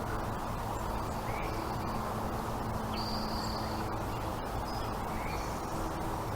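A few faint, high bird calls over a steady low background noise: short chirps about a second in and near the end, and a thin held note lasting under a second around the middle.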